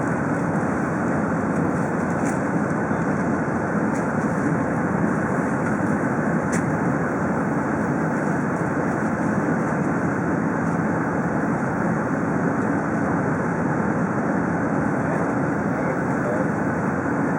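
Steady cabin noise inside an Airbus A380: an even rush of engine and air noise that does not change, with a couple of faint ticks.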